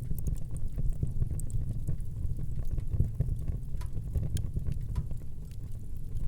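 Fire burning in a fireplace, crackling: a steady low rumble with frequent small, irregular crackles and pops.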